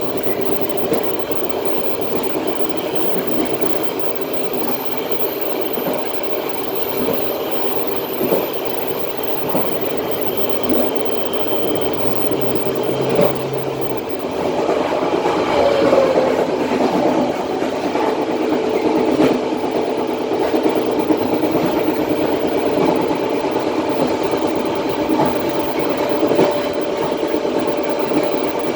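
Matarmaja passenger train coaches running along the track, wheels rumbling on the rails with scattered clicks, getting a little louder about halfway through.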